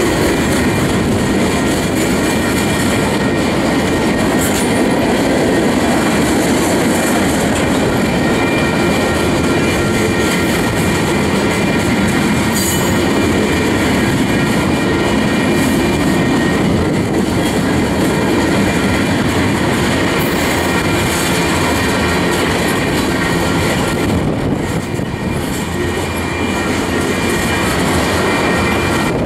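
Freight cars of a manifest train rolling steadily past at speed: steel wheels clattering over the rail joints in a continuous loud rumble, with a faint thin steady squeal from the wheels on the rail.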